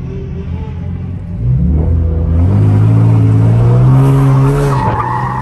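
Chevrolet Camaro's engine revving hard from inside the cabin: it climbs about a second and a half in, holds high, then drops near the end as the tires begin to squeal in a donut.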